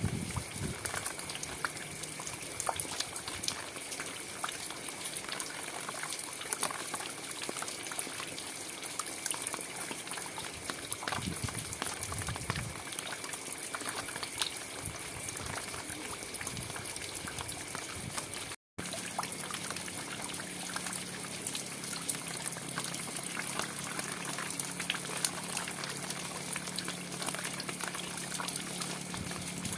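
Steady rain falling, a dense patter of drops with sharper individual drips standing out. About two-thirds of the way through the sound cuts out for a split second, and after that a low hum runs under the rain.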